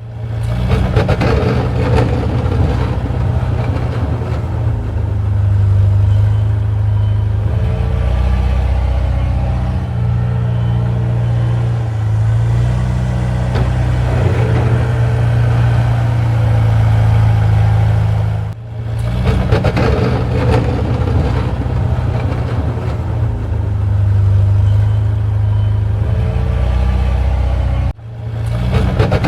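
Engine running steadily with a low, loud drone that swells and eases a few times, broken off briefly twice.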